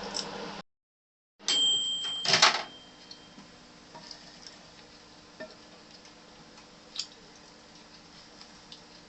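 Microwave oven running with a steady hum that cuts off abruptly. After a second of silence comes a steady high electronic tone lasting about a second, together with a loud clatter, then only faint scattered clicks and taps.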